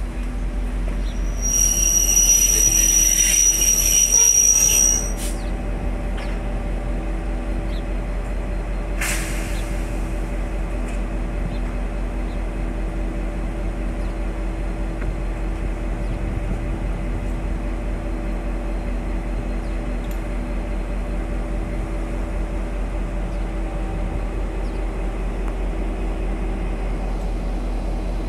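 Train with its diesel engine running steadily. A loud, high-pitched metallic squeal comes in about a second and a half in and lasts about three seconds, and a short sharp noise follows about nine seconds in.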